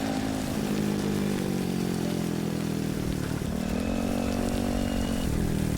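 A small petrol engine running steadily, its pitch shifting up and down a few times, with a brief higher whine about halfway through.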